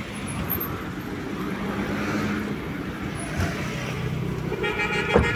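A car engine idling close by, with road traffic behind it. Near the end a steady horn-like tone sets in, and a single sharp thump comes just before the end.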